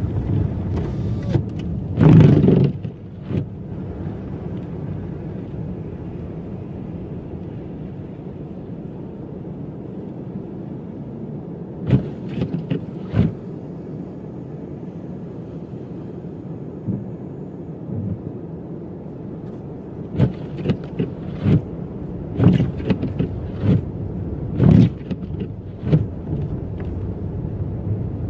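Car driving on snow-covered streets: a steady low rumble of engine and tyres, broken by short knocks and thumps about two seconds in, twice around the middle, and several times near the end.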